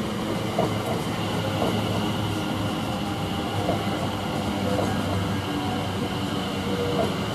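Class 720 electric multiple unit standing at the platform, its onboard equipment giving a steady hum with a faint high whine.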